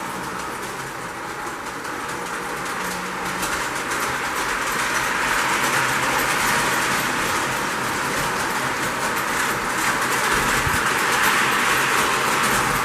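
Lionel postwar #746 O-gauge model locomotive and its cars running on three-rail track: a steady rolling rumble and motor whir with fine clicking of wheels over the rails, growing a little louder toward the end.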